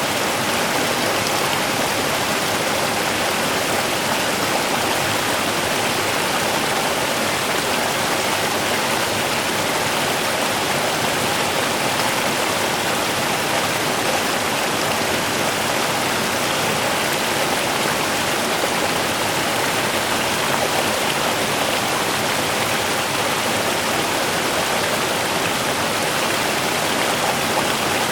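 A small river running over stones, a steady rushing and babbling of water.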